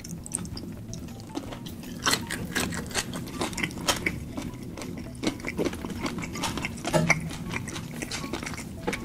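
Close-miked chewing of rice and seafood eaten by hand, with many short wet mouth clicks and smacks.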